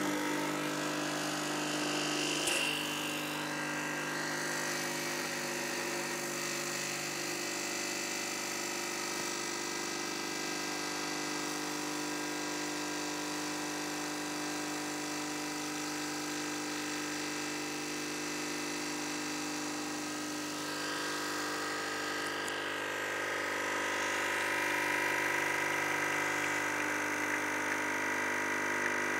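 Demoka Minimoka M360E espresso machine running steadily while brewing espresso, a humming drone, with a click about two and a half seconds in and a shift in tone about twenty-one seconds in.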